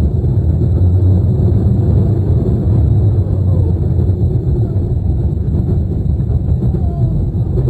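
Steady low rumble of a steel roller coaster train running along its track.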